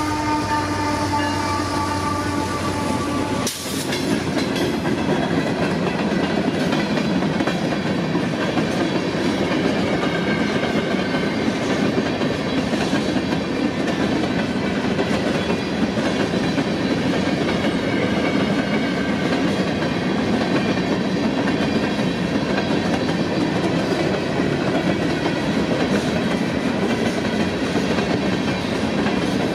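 Freight locomotive horn sounding over the lead diesels as the train passes, cut off about three and a half seconds in. Then a long string of covered hopper cars rolls steadily past, the wheels clacking over the rail joints.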